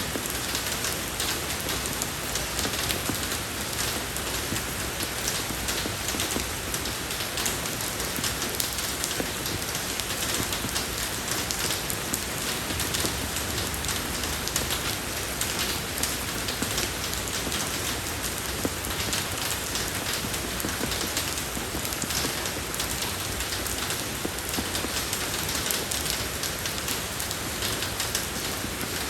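Steady rain falling on a road surface, a dense even patter of drops without letup.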